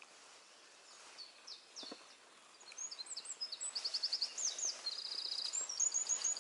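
A songbird singing a varied string of high, quick notes and short trills, which grows louder and busier from about three seconds in, over a faint steady hiss.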